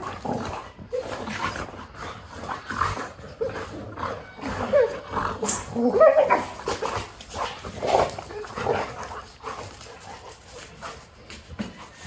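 Labrador retriever dogs whining and yipping in many short, pitched cries that bend up and down.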